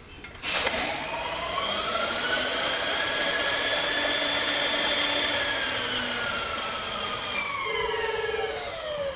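Milling machine motor spinning up with a rising whine, running steadily for a few seconds, then slowly winding down with a falling whine. A short buzz comes in near the end.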